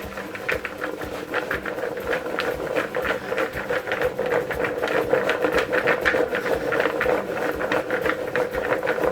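Peanuts rattling against a bowl in rapid, dense clicks as they are shaken and tossed to coat them in flour, growing louder over the first few seconds.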